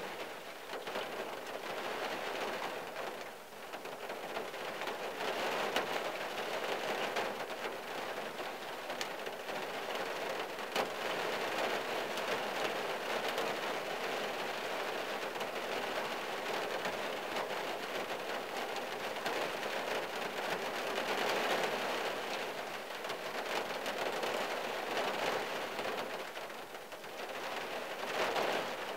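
Rain falling on a '74 Valiant's windshield and body, heard from inside the car's cabin: a steady patter that swells and eases every few seconds, with the odd single drop ticking.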